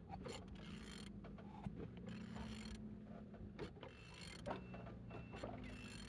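Used car engine being turned over by hand, giving faint mechanical clicks and creaks as it rotates; it turns freely.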